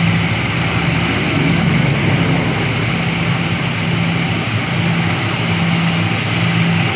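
Aircraft engines running, a steady loud rushing noise with a constant low hum underneath.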